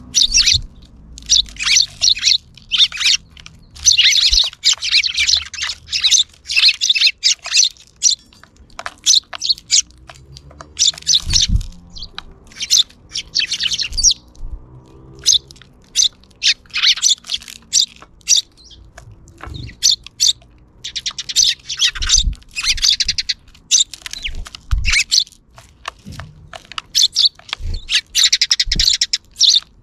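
Many sparrows chirping in dense, overlapping clusters, with short gaps between flurries and a few brief low thumps.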